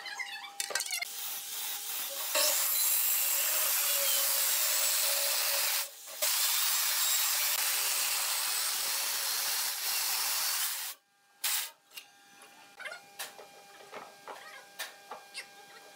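Electric circular saw cutting through a thick ebony slab: a loud, steady cutting noise over the motor's whine, with a short break about six seconds in, cutting off about eleven seconds in. Afterwards, scattered knocks and clunks from the heavy slab being handled.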